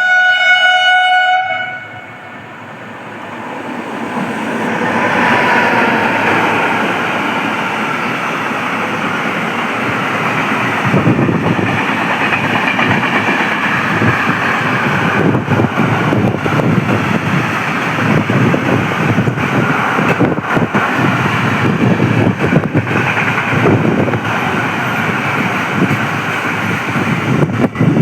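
A train horn sounding one steady note for about two seconds and cutting off, then a train running through the station at speed: its noise swells over a few seconds, and from about ten seconds in a dense, continuous wheel clatter on the rails keeps on to the end.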